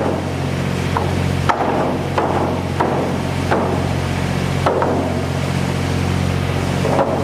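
Construction work: irregular hammer knocks and clanks, roughly one or two a second, over the steady hum of running machinery.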